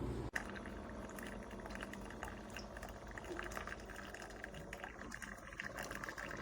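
Ninja DualBrew Pro drip coffee maker brewing, its heated water sputtering and gurgling with an irregular crackle.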